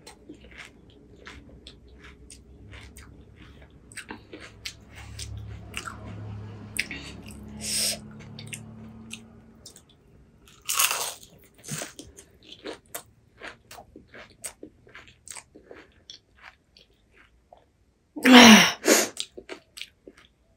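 Crisp pani puri shells being bitten and chewed: a run of short, sharp crunches with a few louder bursts, the loudest near the end.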